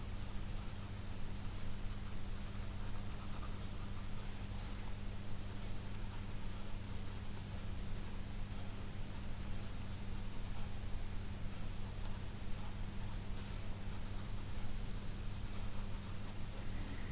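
2B graphite pencil scratching across sketchbook paper in quick, rapid sketching strokes, with a brief lull about five seconds in. A steady low hum runs underneath.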